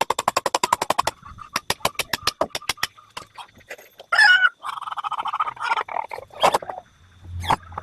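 A fast run of sharp clicks for about the first second, then slower scattered clicks, followed by laying hens clucking with several loud squawks.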